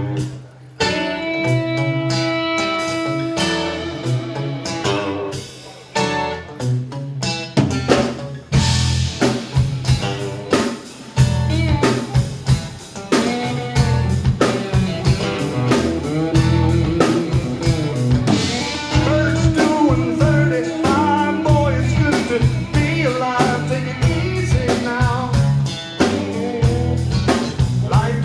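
Live blues band playing. A guitar plays sparse, held notes at first, then drums and bass come in with a steady beat about eight seconds in.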